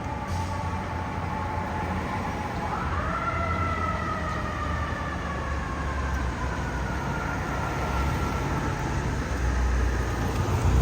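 FDNY fire truck siren wailing: its pitch slowly falls, jumps up about a third of the way in, then slowly winds back down, over the low rumble of the trucks' engines, which grows louder near the end.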